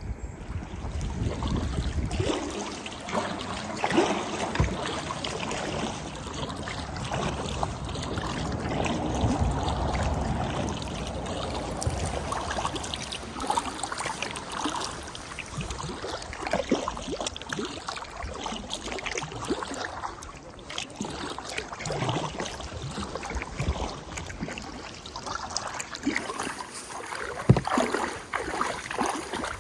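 Kayak paddling on a river: paddle splashes and moving water, with scattered knocks against the boat. Wind rumbles on the microphone briefly at the start.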